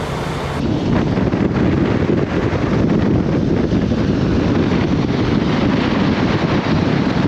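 Storm wind buffeting the microphone: a loud, steady, low noise. It jumps louder about half a second in.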